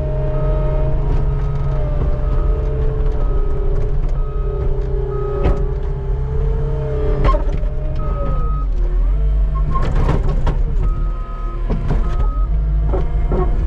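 Skid steer engine running steadily under load while it scrapes snow, with a high reverse beeper sounding in short repeated beeps at intervals and scattered knocks and clunks from the machine and its bucket.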